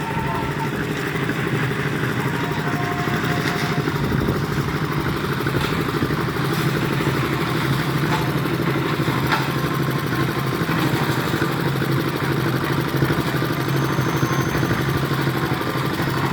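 Isuzu Elf dump truck's diesel engine running at a steady, even speed.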